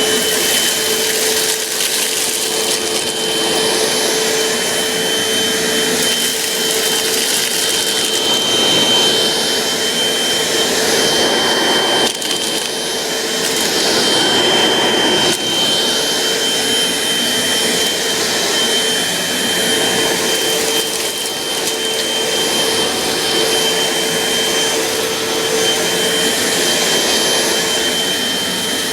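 Eureka Optima 12-amp vacuum cleaner running steadily, with a high motor whine over the rush of air, as it vacuums up pretzel crumbs.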